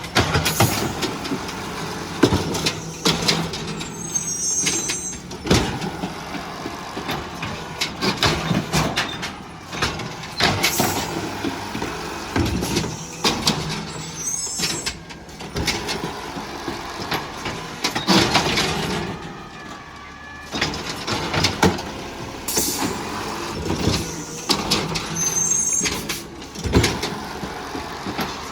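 Garbage truck working a collection route: its engine runs throughout, with many sudden clanks and bangs of bins being handled and emptied. A short high squeal recurs about every ten seconds.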